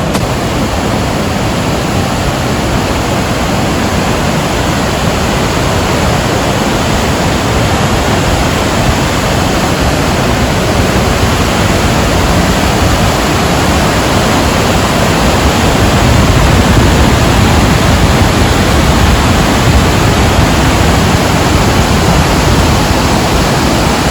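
A large waterfall's steady roar: loud, even rushing water with no break, growing a little louder past the middle.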